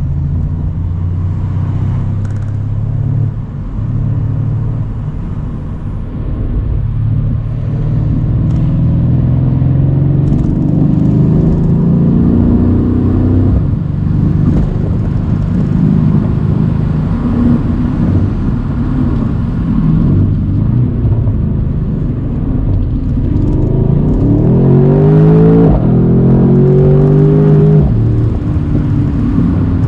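Mercedes-AMG C63's twin-turbo V8 running under way, heard from the open-top car. The revs climb briefly near the middle. Near the end it accelerates hard, revs rising steeply twice in a row through an upshift, the loudest part.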